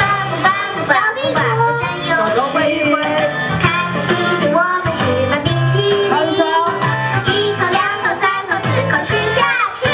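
A children's sing-along song: a voice singing a melody over a backing track with a steady beat.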